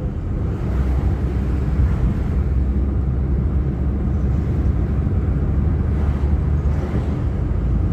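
Steady engine and tyre rumble heard from inside a moving car's cabin.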